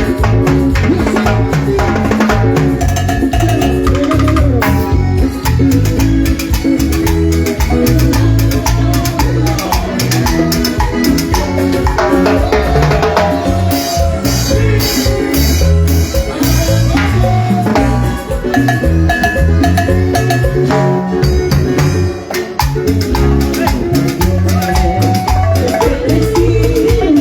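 Live band playing an instrumental passage of a Peruvian cumbia: drum kit and percussion keep a steady beat under bass and a melody line, with no singing.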